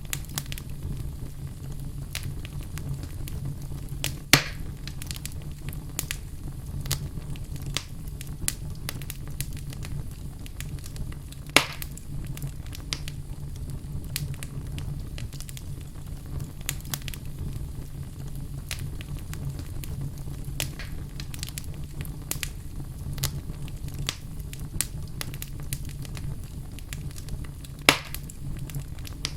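Wood fire burning in a fireplace: a steady low rumble with constant crackling, and three louder, sharper pops spread through it.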